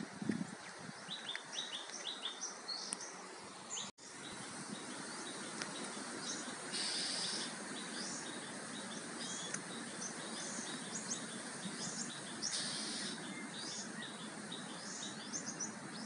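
Small birds chirping repeatedly over a steady outdoor background hiss, picked up by a Redmi 4 (4X) phone's microphone. The sound cuts out briefly about four seconds in, and two short bursts of high hiss come later.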